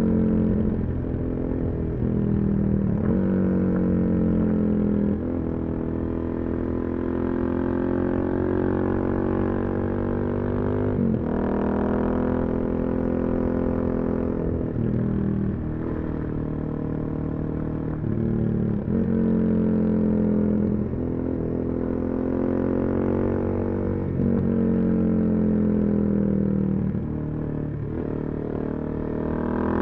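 Suzuki DR-Z400SM single-cylinder engine with a full Yoshimura exhaust, ridden through the gears. Its pitch climbs under throttle and breaks off at each shift, about a dozen times, with stretches of steadier cruising in between.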